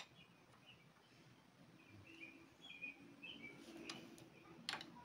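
Near silence with faint bird chirps, and a few light sharp clicks near the end.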